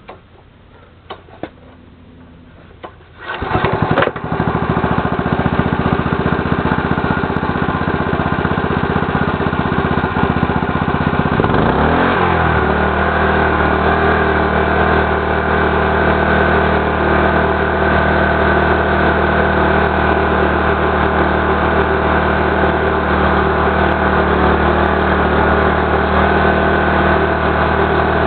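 A few clicks, then the Mitsubishi GM132L single-cylinder air-cooled petrol engine of a power sprayer starts about three seconds in and runs steadily. About twelve seconds in its note shifts briefly, then settles into an even running speed.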